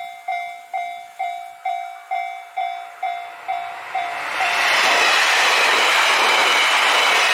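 Japanese level-crossing alarm dinging about twice a second, then, about four and a half seconds in, a JR Hokkaido 789 series electric express train passing over the crossing, its loud, steady rush of wheel and body noise drowning the bell.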